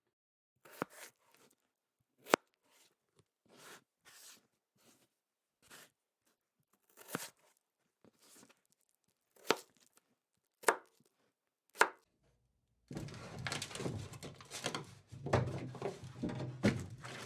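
Food preparation sounds: a dozen or so separate clicks and knocks of kitchen utensils and cookware, then from about thirteen seconds in a busier stretch of continuous clattering and scraping.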